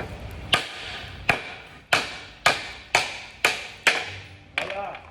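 Hammer blows on a steel car subframe, about eight sharp strikes roughly every half second, each with a short metallic ring, driving out a torch-heated subframe bushing.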